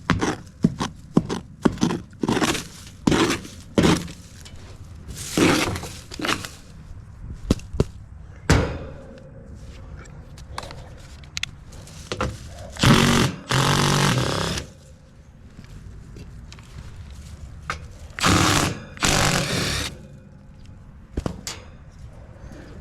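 Hand tools clattering, knocking and scraping as someone rummages through a tool bag or box for a spare screwdriver. Quick knocks come one after another at first, then a couple of longer scraping rasps about halfway through and again near the end.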